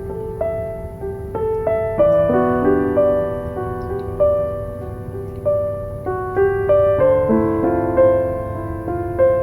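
Gentle solo piano music, single notes and chords struck one after another in a slow melody, over a low steady noise bed.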